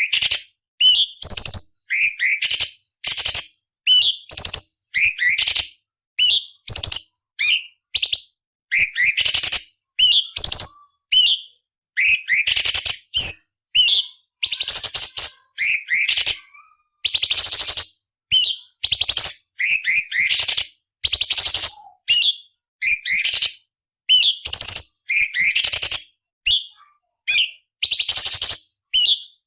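Orange-bellied leafbird (cucak cungkok) singing: a fast run of short, sharp whistled chirps that sweep up or down in pitch, broken every few seconds by longer harsh, rasping phrases.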